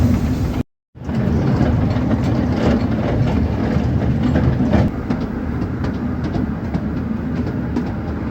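Small narrow-gauge forest railway train (the Taipingshan 'bong bong' train) running, a steady rumble with wheels clicking and clacking over the rail joints. The sound cuts out completely for a moment just under a second in, then resumes.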